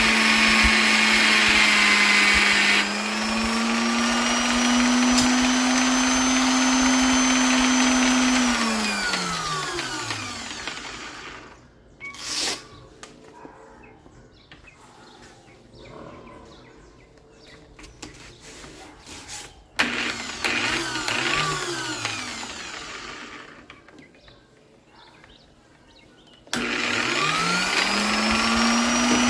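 Electric polisher's motor running at full speed, then switched off about eight seconds in and winding down with a falling whine. There is a single knock while it is stopped. The motor is briefly switched on and off again near the middle, then switched on near the end and spins up with a rising whine to full speed.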